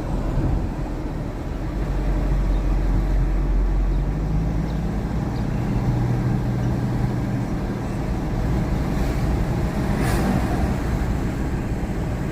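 Engine and road noise inside a moving car's cabin: a steady low rumble with engine hum, and a brief click about ten seconds in.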